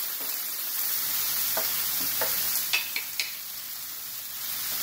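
Venison and elk stir-fry with onions and mushrooms sizzling steadily in frying pans. A wooden spatula knocks against a pan about four times in the first few seconds as the onions and mushrooms are stirred.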